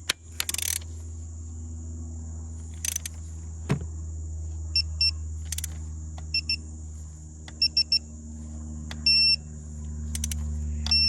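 Digital torque wrench beeping in short pips, in pairs, then three, as the spark plug is tightened toward 13 foot-pounds, ending in one longer beep about nine seconds in that signals the set torque is reached. A few sharp clicks come early on, over a steady low hum.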